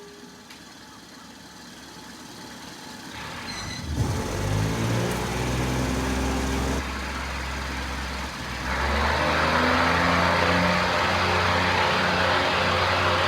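RHN diesel railcar's engine revving up as the train pulls away, its note rising about four seconds in and then running steadily. From about nine seconds in, loud wheel-and-rail running noise joins it.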